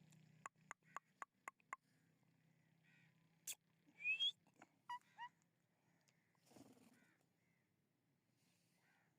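Pet green parrot making small sounds: a quick run of about six clicks, then two short rising whistles, the loudest sound, and a few brief chirps, all fairly faint.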